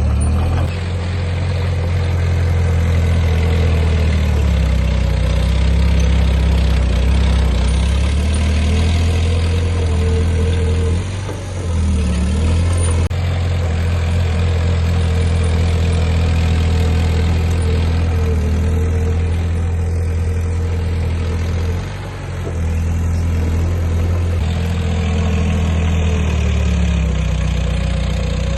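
Heavy earthmoving machine's diesel engine running steadily with a deep hum, easing off briefly twice before picking up again.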